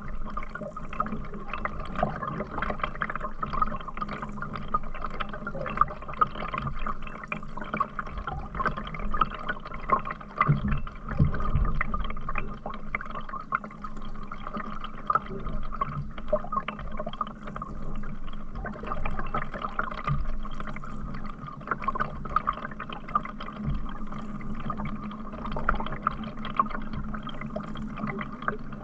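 Water dripping, trickling and splashing close by, with many small irregular splashes, as around a paddled canoe.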